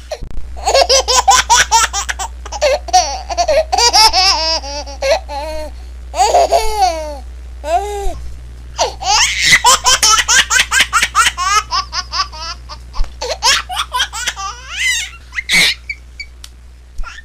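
A baby laughing in fits of rapid, high-pitched giggles, with short pauses between fits and a few sliding squeals about six seconds in.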